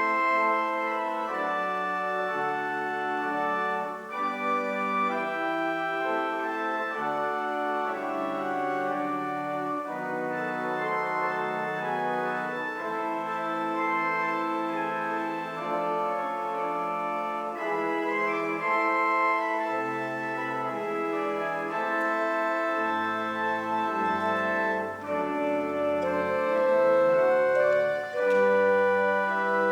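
Church organ playing slow, sustained chords, the notes held and moving from chord to chord; deep bass notes join in about two-thirds of the way through.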